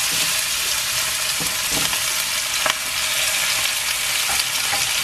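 Raw chicken legs sizzling in hot oil with ginger and garlic in a nonstick wok: a steady, dense frying hiss with a few faint clicks.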